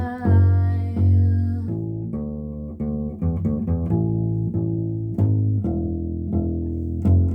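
Instrumental break in an indie original song: plucked guitar and bass notes, about two a second, with a deep bass line. A held sung note trails off in the first second or two.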